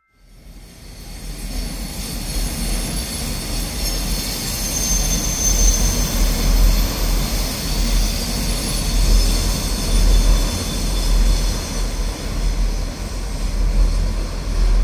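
An electric commuter train running over a rail bridge, with a steady low rumble and thin high-pitched wheel squeal over it. It fades in over the first couple of seconds and then holds steady.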